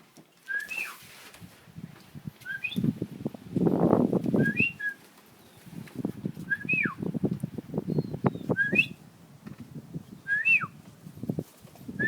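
A short whistle, rising then dropping sharply, repeated about every two seconds, over bursts of low rustling and clattering.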